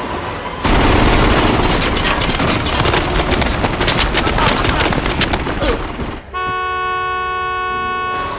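Car-chase film soundtrack: about five seconds of loud, dense clattering impacts, then a car horn sounding one steady held tone for about two seconds before cutting off near the end.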